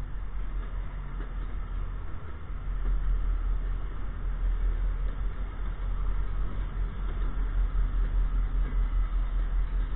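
MBTA commuter rail train rolling past: bi-level coaches, then the diesel locomotive pushing at the rear. A steady low rumble that grows louder about three seconds in and pulses unevenly toward the end as the locomotive draws near.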